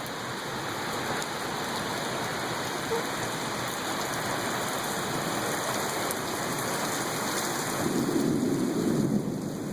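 Pouring rain making a steady hiss, with a low rumble of thunder swelling about eight seconds in.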